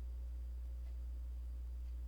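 A steady low hum with a faint, even background hiss and nothing else.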